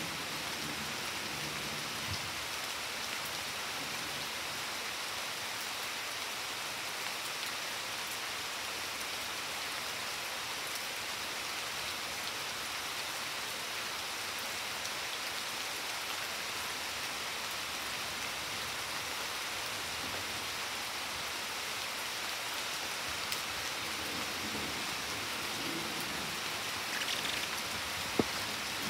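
Steady rain falling on a garden, hissing evenly on leaves, lawn and wet stone paving. A single sharp tap stands out near the end.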